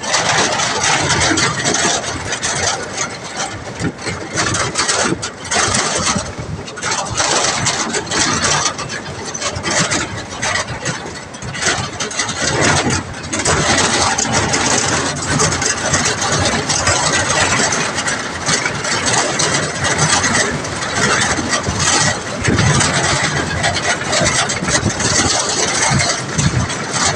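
A motor vehicle's engine running while travelling, under a constant loud, noisy rush that rises and falls.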